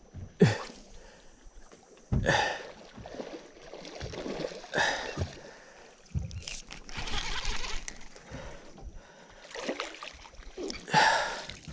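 Water splashing and sloshing around a small boat, in a series of sudden splashes with quieter lapping between them.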